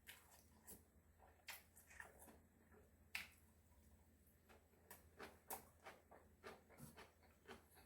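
Faint close-up mouth sounds of a person chewing food: a run of short wet clicks and smacks, about two a second, coming a little quicker in the second half.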